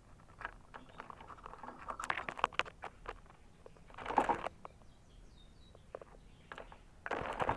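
A caged canary giving a few faint, short high chirps among three bursts of rustling and sharp clicking, about two, four and seven seconds in.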